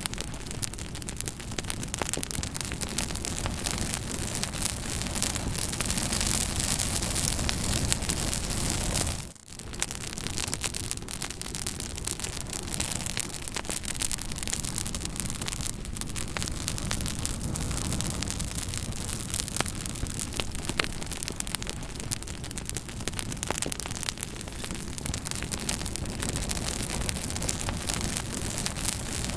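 Fire crackling steadily, with a continuous hiss and many small sharp pops scattered throughout. The sound drops out briefly about nine seconds in, then carries on.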